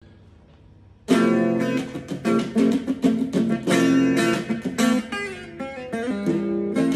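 Music on a plucked string instrument, guitar-like, that starts abruptly about a second in with a string of quickly plucked notes and chords after a faint low hum.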